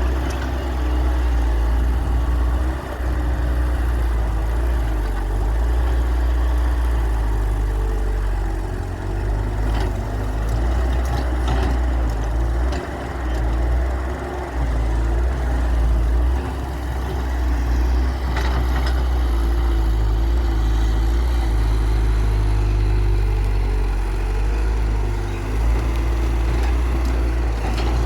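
Hyundai 1300W excavator's diesel engine running steadily under load, with a hydraulic whine that rises and falls as the machine works. A few sharp knocks come about ten seconds in and again later.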